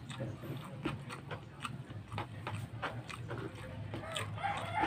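Close-up mouth sounds of a man chewing rice and pork ribs: irregular wet clicks and smacks over a low steady hum. Near the end a cat meows.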